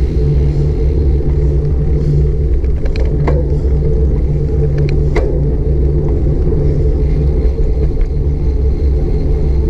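Steady low rumble of wind buffeting a bike-mounted action camera's microphone, mixed with road and tyre noise while riding. A few sharp clicks come about three seconds in and again about five seconds in.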